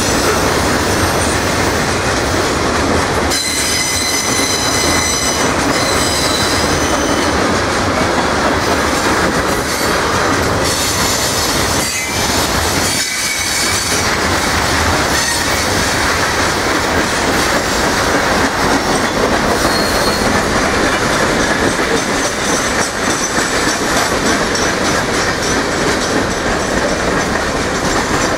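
Freight cars of a passing manifest train rolling by close at speed, a loud steady noise of steel wheels on rail. High-pitched wheel squeal rings out a few seconds in and again about ten seconds in.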